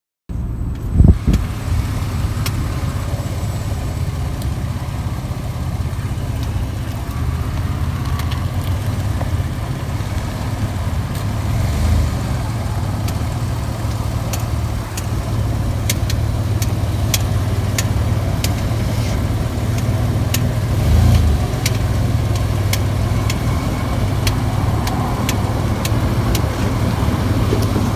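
Jeep rolling slowly with a steady low engine and road rumble, over which the driver's side rear wheel crackles in sharp, irregular clicks, more often in the second half, like a plastic cup stuck in there rather than metal scraping. A loud knock about a second in.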